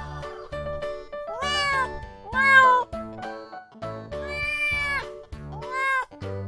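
Kitten meowing four times, each call rising and then falling in pitch, the third the longest, over background music with a steady beat.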